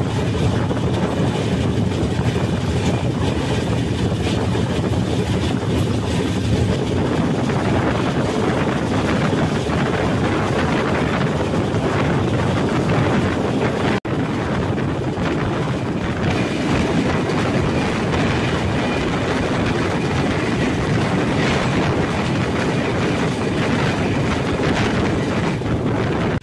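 Indian Railways express train running at speed, heard from its open coach door: a steady rumble of wheels on rail with wind noise. The sound drops out for an instant about halfway through.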